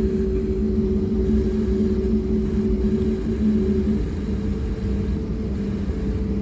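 Engine and cabin noise inside an Airbus A320-family airliner on the ground after landing: a steady low rumble with two held hums. The higher hum fades out about three seconds in, and the engine note eases slightly about a second later.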